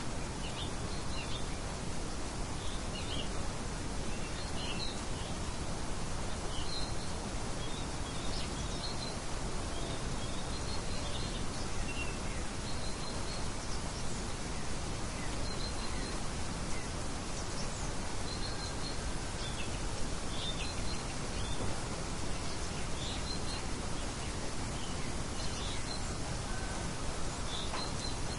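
Steady rushing noise of light wind, with small birds chirping now and then throughout: short high chirps, often two or three in quick succession.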